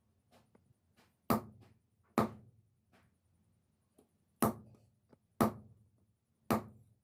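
Five loud, sharp knocks at uneven intervals, with lighter taps in between, each knock dying away quickly.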